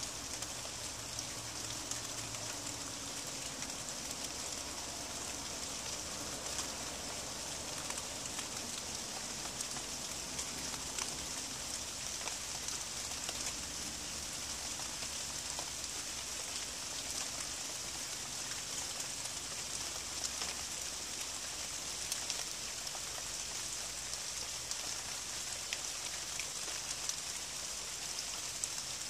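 Steady rain falling: an even hiss dotted with the small ticks of individual drops.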